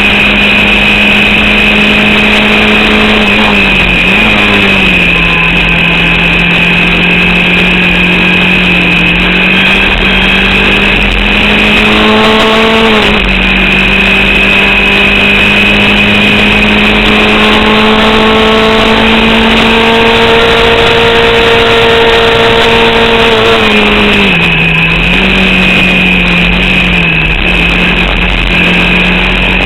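Formula Vauxhall 8v race car's four-cylinder engine running loud under load, held at fairly steady revs. It dips briefly twice, about 4 seconds in and again near the end, and climbs slowly in the middle. A steady high whine runs over it. The engine is misfiring and losing power to an alternator/battery fault, which the driver says left only about 4500 rpm.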